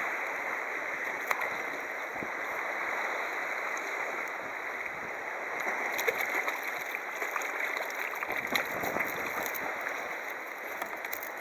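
Water rushing and lapping against a kayak hull, a steady wash, with scattered small ticks and splashes in the second half.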